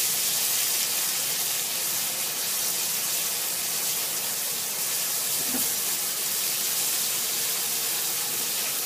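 A pounded paste of coriander, garlic and fresh turmeric sizzling in hot oil in a wok as it is stir-fried, a steady hiss with one small knock about halfway through.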